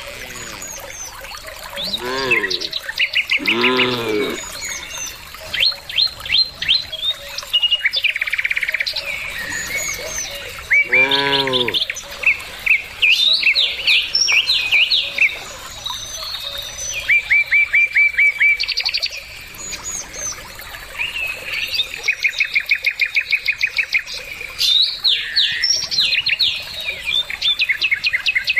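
Birds chirping and trilling in rapid runs throughout. Three short, low moos from the cattle come through, about 2 and 4 seconds in and again around 11 seconds, each rising and then falling in pitch.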